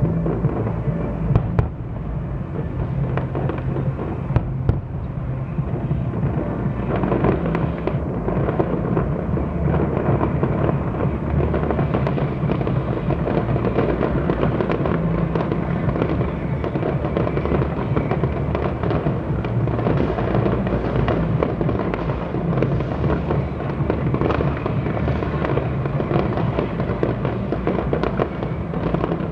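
Fireworks display: a dense, continuous barrage of bangs and crackles that thickens about seven seconds in and stays packed.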